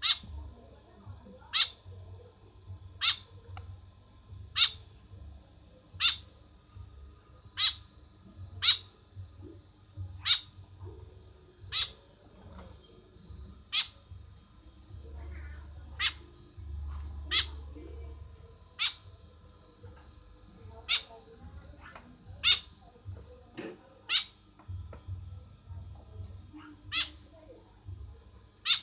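White-breasted woodswallow (kekep babi) calling over and over: short, sharp, high calls, about one every second and a half.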